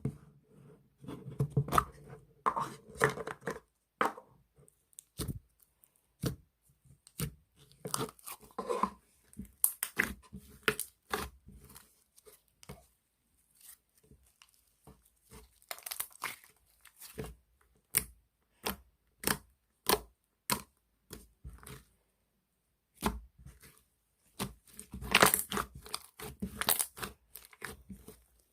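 Slime being squished, pressed and stretched by hand, giving irregular sticky pops and clicks, denser about a second in, around eight seconds and near the end.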